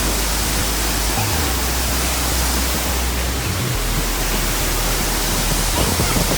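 Waterfall rushing: a loud, steady hiss of falling water with a deep rumble underneath.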